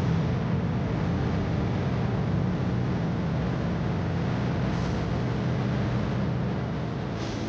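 Steady low rumble and hiss of a moving vehicle, like engine and road noise heard from inside a car.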